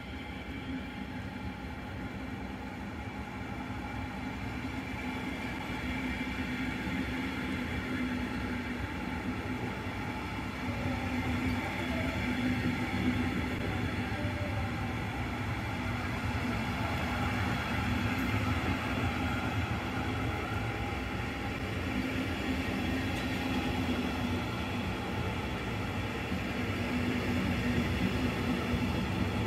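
Double-deck passenger train rolling past on the rails: a steady rumble of wheels on track with a steady hum over it, growing gradually louder.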